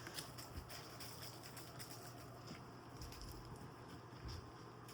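Faint scattered light taps and rustling of kittens moving about and playing, over a low steady hum.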